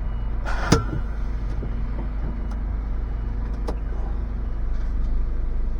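HGV diesel engine idling steadily, heard from inside the cab. About half a second in there is a short burst of hiss ending in a sharp click, and a fainter click comes near four seconds.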